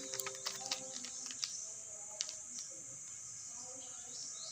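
Faint scattered clicks and taps over a low hiss, most of them in the first second and a half, with faint short high chirps near the end.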